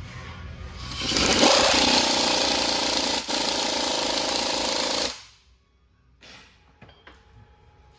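Pneumatic air tool, such as an impact wrench, running in one steady burst of about four seconds, starting about a second in and cutting off sharply, followed by a few faint clicks.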